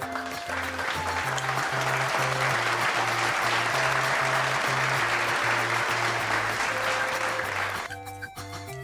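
Applause lasting about eight seconds and stopping shortly before the end, over light background music with a steady bass line.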